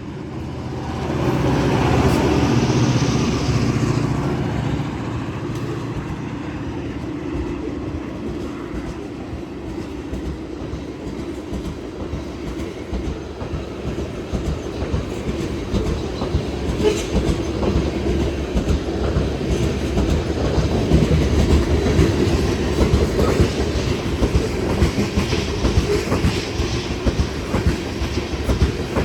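New York and Atlantic Railway freight train passing close by. The GP38-2 diesel locomotives go by loudly in the first few seconds, then a long string of garbage and stone freight cars rolls past with a steady clickety-clack of wheels over the rail joints, growing louder toward the end.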